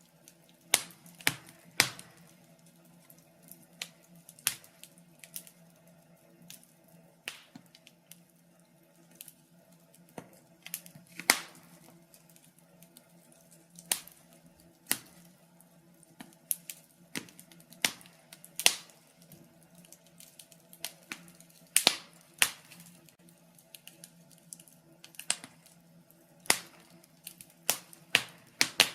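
Wood fire in a fireplace, burning logs crackling and popping in irregular sharp snaps over a faint steady low hum.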